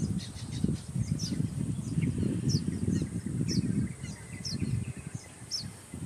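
Baya weavers giving short, high, downward-sliding chirps about once or twice a second, with a brief buzzy note around the middle. Under them runs a louder, uneven low rumble.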